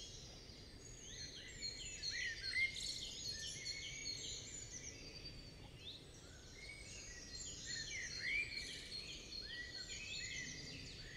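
Small songbirds chirping and singing faintly, many short overlapping calls over a low hiss, busier in two stretches.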